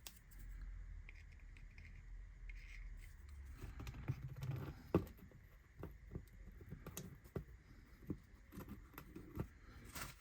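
Faint handling noises from assembling a laser-cut model building kit: small taps, clicks and scrapes as parts are glued and pressed together, with one sharper click about five seconds in.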